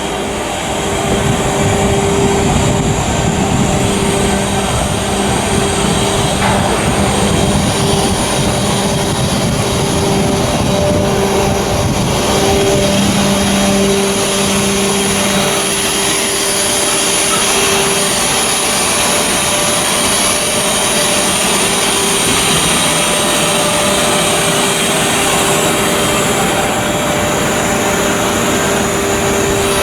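Heavy machinery running steadily, with a low hum and a high whine that steps up in pitch about seven seconds in and wavers for a while.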